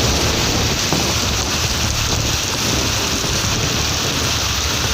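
Heavy rain pouring down steadily in an even, unbroken rush.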